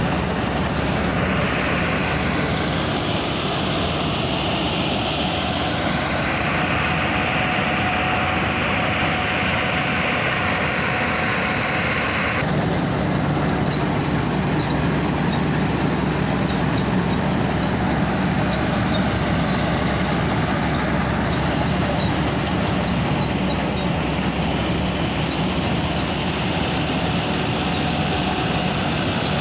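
Tractor engine running steadily, its sound changing abruptly about twelve seconds in.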